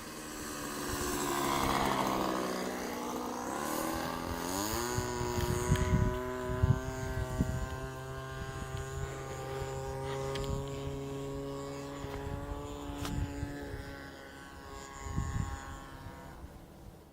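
Combustion-engine RC model airplane in flight: the engine note falls in pitch as it passes, rises sharply about four seconds in as the engine revs up, then holds a steady high whine before fading out near the end.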